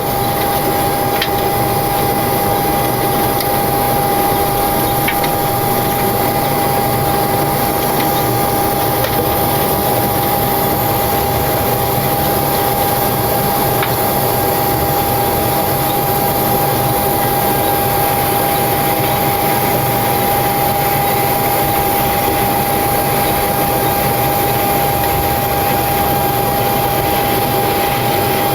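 Steady cockpit noise of a Boeing 727-200 on the ground with its three Pratt & Whitney JT8D engines still running: an even rush with a steady high-pitched whine.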